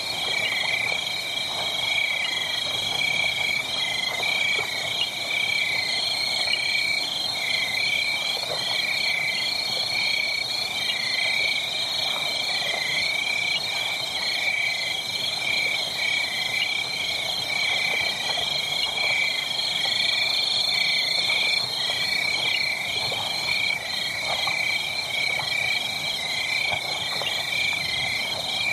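A dense chorus of calling animals, frog- or insect-like, made of rapidly repeated pulsed calls at two pitches and holding steady throughout. Faint scattered crackles sit underneath.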